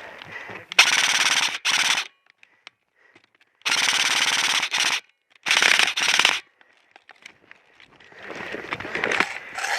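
Airsoft rifle firing on full auto in several short bursts, each under about a second long, a rapid rattle of shots that starts and stops sharply. After the bursts comes a rising rustle.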